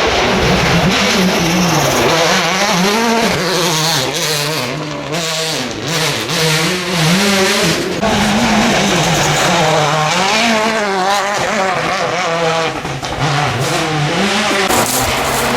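World Rally Car's 1.6-litre turbocharged four-cylinder engine at full attack on a rally stage: the engine note climbs and drops again and again, about once a second, as the car is driven hard up and down through the gears.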